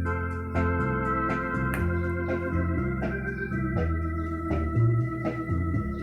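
Yamaha Electone BK-5C electronic organ playing held chords over a bass line whose notes change about every half second, with short percussive clicks in time.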